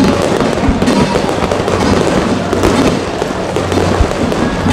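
Fireworks display overhead: aerial shells bursting with dense crackling and occasional sharp bangs, about a second in and again near the end.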